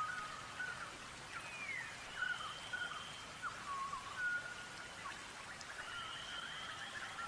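Birds singing: a long, high whistled note every few seconds over quick rising and falling chirps.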